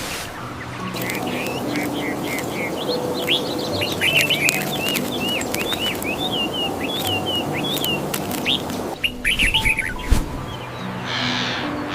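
Birds chirping: rapid series of short, sweeping high chirps, with a brief pause just before the end. A soft music bed of held low notes plays beneath, and there is a single sharp click about ten seconds in.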